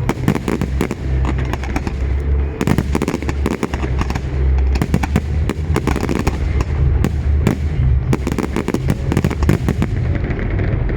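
Fireworks display: rapid, overlapping bangs and crackles of bursting shells, over a constant low rumble.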